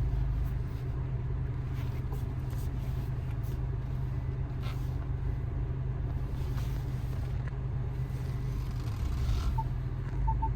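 Steady low rumble of a car's engine and road noise heard from inside the cabin while driving, with a couple of faint short beeps near the end.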